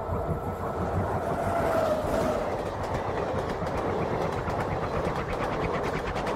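Passenger train running past, its wheels clacking in a regular rhythm over the rail joints over a steady rumble.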